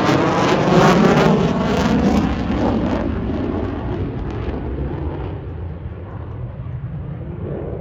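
An airplane flying past at an air show: loud, with a sweeping, phasing roar that peaks about a second in, then fades steadily as it moves away.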